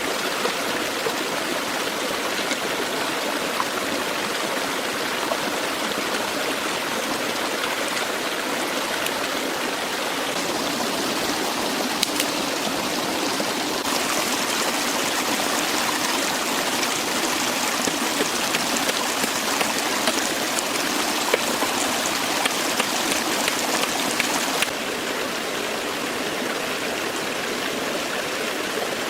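Forest stream flowing steadily, a continuous rush of running water. It grows louder and brighter about halfway through and drops back abruptly near the end, with a few faint clicks over it.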